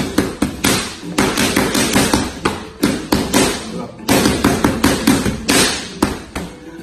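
Boxing gloves smacking into padded focus mitts during pad work: sharp slaps landing in quick combinations, about two to three a second.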